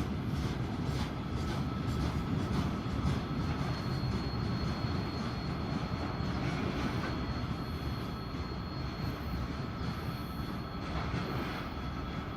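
A train rolling past: a steady rumble of wheels on the rails that slowly fades, with a faint steady high whine from about four seconds in.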